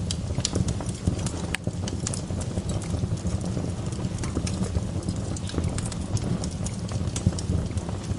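Wood fire burning in a fireplace: irregular crackles and pops of the logs over a steady low rumble of the flames.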